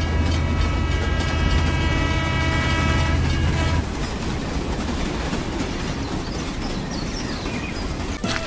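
Train running past: a steady chord-like tone over a low rumble for about the first four seconds, then a noisy rolling rumble.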